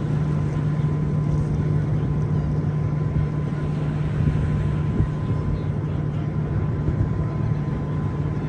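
Steady low machinery drone of a large ship, with a faint constant higher hum over it.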